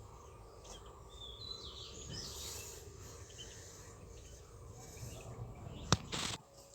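Outdoor ambience with a few faint, short bird chirps, then a sharp click near the end followed by a brief rustle.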